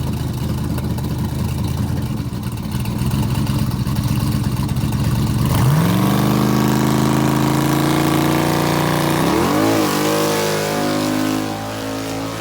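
Turbocharged LS V8 running in a Fox Body Mustang: steady at first, then the revs rise sharply about halfway through and hold high, dip and waver a few seconds later, and settle at a steady lower speed near the end.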